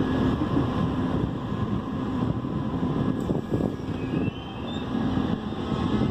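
Steady rumble of two Indian Railways passenger trains running side by side on parallel tracks, heard from aboard one of them: wheels on rails and running gear. A faint rising squeal comes in about three and a half seconds in.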